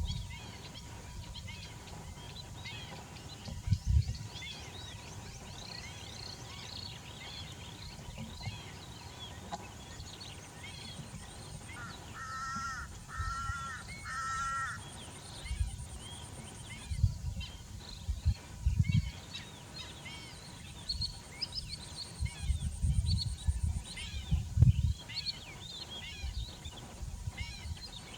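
A flock of birds calling over one another, with many short high chirps throughout. About halfway through there are three honking calls in a row. Low thuds come and go.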